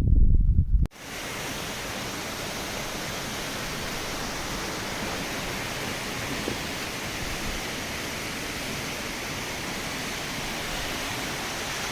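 A low rumble of wind on the microphone cuts off about a second in. It gives way to a steady, even rushing of fast-flowing water.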